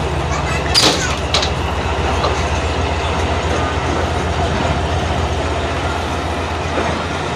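Tezgam Express passenger train running as it pulls out of a station: a steady low rumble, with two sharp clicks about a second in.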